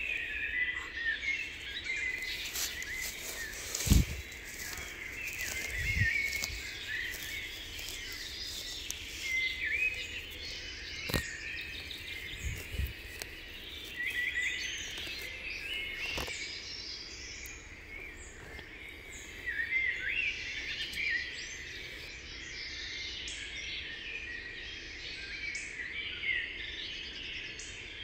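Forest birds chirping and calling, many short high calls overlapping throughout. A few scattered knocks sound over them, the sharpest about four seconds in.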